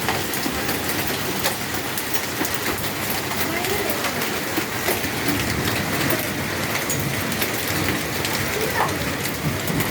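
Heavy rain falling: a steady dense hiss with many sharp drop ticks on a hard surface.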